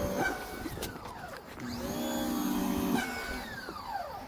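Electric pressure washer motor kicking on and off with no one spraying. It runs twice, each time spinning up quickly, holding for about a second and winding down.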